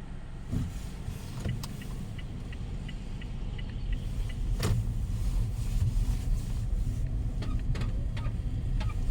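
Strong storm wind buffeting the microphone: a heavy low rumble that grows louder about four seconds in, with scattered sharp clicks and taps.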